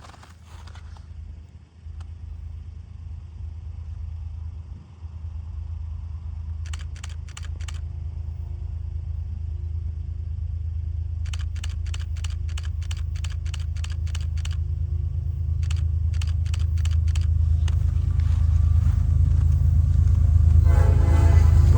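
Diesel locomotives of Norfolk Southern train 6E4 approaching: a low engine rumble that grows steadily louder. Runs of rapid clicking, about four a second, come and go in the middle, and the train horn starts sounding near the end.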